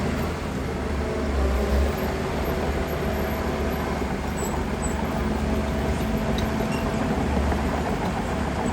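Heavy diesel earthmoving machinery running steadily as a low engine rumble, swelling briefly about two seconds in.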